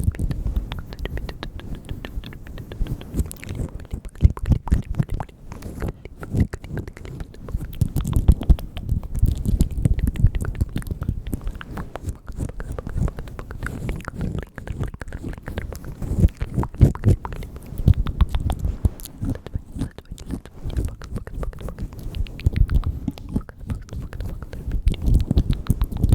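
Close-miked ASMR mouth sounds: a dense, continuous stream of wet clicks and smacks of lips and tongue, with soft low thumps, in the style of the 'bugs' eating trigger.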